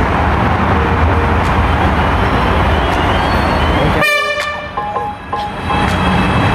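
Steady rumble of a suburban train running past the platform. About four seconds in the rumble drops away abruptly and a short, clear high tone sounds, fading over about a second before the rumble returns.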